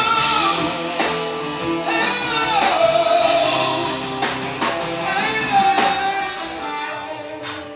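Live band music: electric guitar and drums, with a wavering, bending melody line over sustained chords, thinning out near the end.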